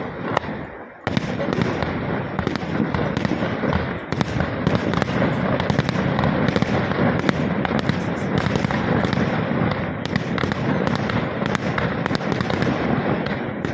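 Fireworks going off: a few separate bangs, then from about a second in a continuous rapid barrage of bursts and crackling.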